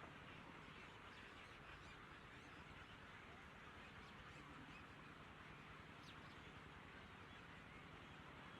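Faint steady outdoor hiss with a few faint, high, short bird chirps, the clearest about six seconds in.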